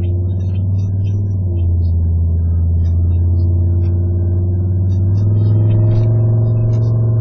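2006 Pontiac Grand Prix GXP's 5.3-litre V8 through a catless exhaust with the mufflers cut out and the factory resonator kept, droning steadily at highway cruise, heard inside the cabin. The drone steps up slightly in pitch and loudness about five seconds in.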